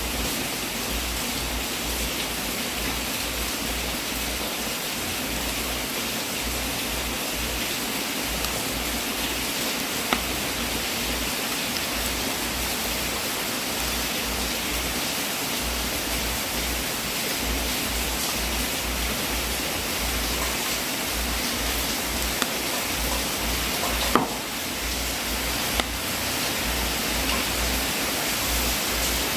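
Wood fire burning in a fireplace: a steady hiss with a few sharp pops, the loudest about ten seconds in and around twenty-four seconds.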